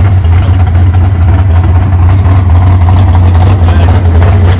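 Chrysler wedge V8 fed by Weber carburetors, idling steadily with a loud, even low hum.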